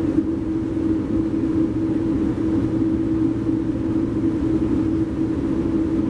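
Steady rumble of a Metrolink commuter train heard from inside the passenger coach as it rolls along, with a constant low hum over the running noise.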